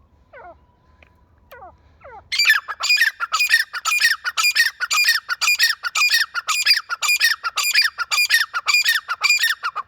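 Teetar (francolin) calling: after a few faint chirps, a loud, fast run of harsh repeated calls, two to three a second, starts about two seconds in and keeps going.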